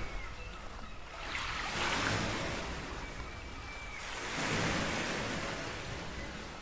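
Small waves breaking and washing up the beach, surging twice a few seconds apart.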